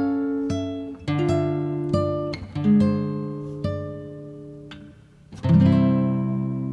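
Background music: acoustic guitar plucking notes and chords, ending on a chord struck about five and a half seconds in and left to ring.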